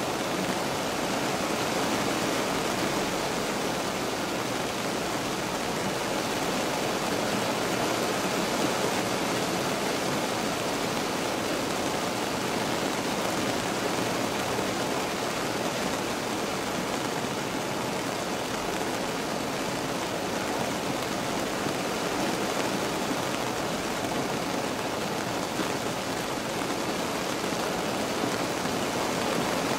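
Steady rain falling on a car, heard from inside the cabin: an even, unbroken hiss of drops with no separate events.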